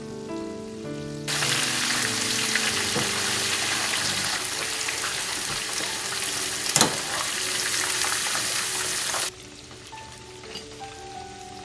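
Chicken pieces frying in hot oil: a loud, even sizzle that starts abruptly about a second in and cuts off suddenly near the end, with one sharp tick partway through. Background music plays throughout.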